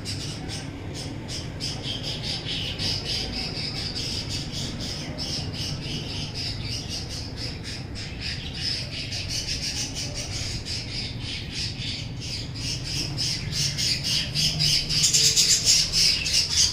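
Aviary budgerigars chattering and squawking in a fast, continuous run of short calls. The calls grow louder about fifteen seconds in.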